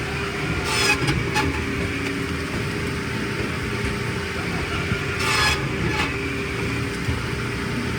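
Engine of firewood-processing machinery running at a steady drone, with two short harsh bursts, about a second in and about five seconds in.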